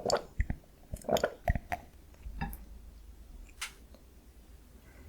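Close-miked chewing of sweet soy-glazed Korean fried chicken (dakgangjeong): sticky, wet mouth sounds and crisp clicks, busiest in the first two seconds, then quieter with a single sharp click past the middle.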